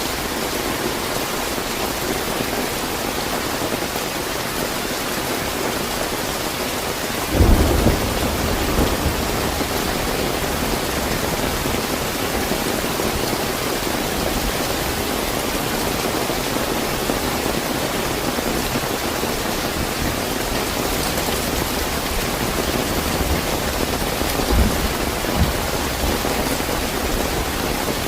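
Steady heavy rain, with a sudden thunderclap about seven seconds in that trails off into low rumbling, and more low thunder rumbles near the end.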